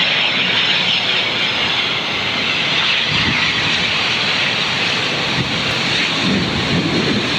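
Jet airliner engines running, heard as a steady rushing noise.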